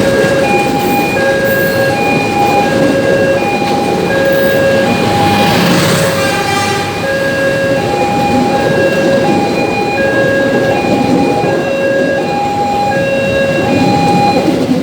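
Electronic level-crossing warning alarm beeping in an even repeating pattern, about one beep every three-quarters of a second, over the steady rumble of a passing train.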